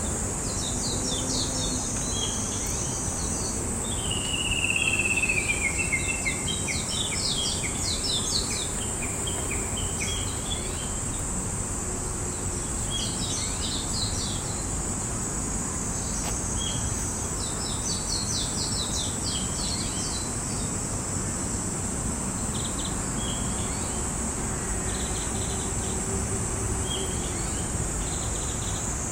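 Songbirds, including a Japanese bush warbler, singing in scattered bursts of quick chirps, with one long falling whistled phrase about four seconds in. A steady, high-pitched insect drone runs underneath.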